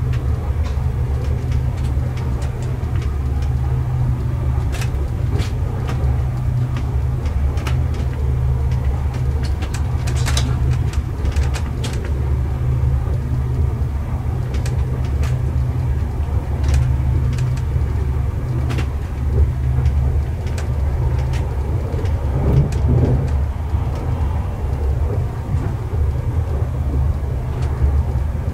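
Steady low rumble of a moving passenger train heard from inside the carriage, with scattered sharp clicks from the running gear and track.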